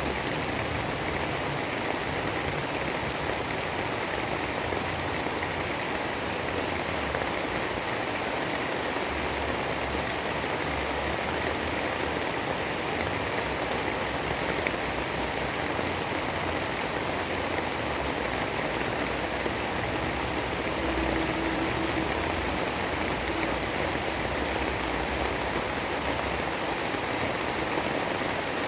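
Steady storm ambience: a dense, even hiss of rain with an uneven low rumble of wind underneath.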